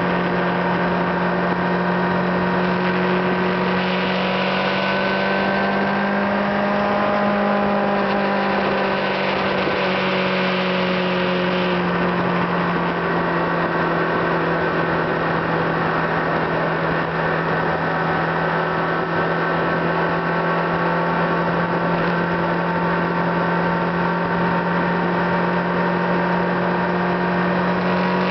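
Car engine running at a steady cruising speed, heard from inside the car, with road noise. Its pitch rises and falls slightly with small changes in speed.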